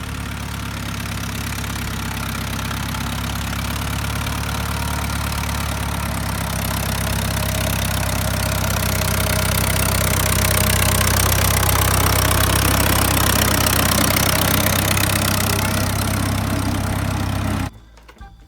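Old Ford tractor's engine running steadily, growing louder through the middle, then cutting off suddenly near the end.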